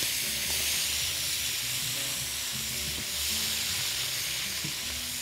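Shrimp frying in oil in a hot wok, a steady sizzle.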